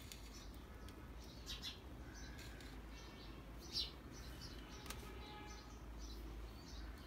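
Faint bird chirps over a steady low hum, with one light click about five seconds in.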